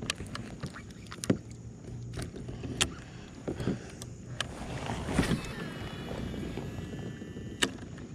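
Scattered sharp knocks and clicks of gear against a small fishing boat, over a low steady hum.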